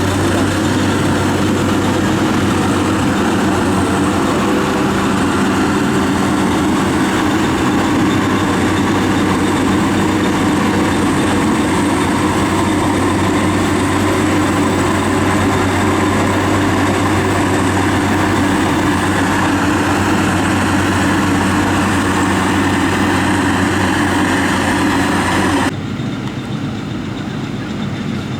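Rice combine harvester's engine running steadily, with the clatter of its machinery over a constant low hum. Near the end the sound suddenly becomes quieter and duller.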